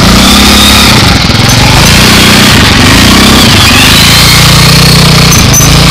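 Small motorcycle engine running loudly, its pitch rising and falling with the throttle.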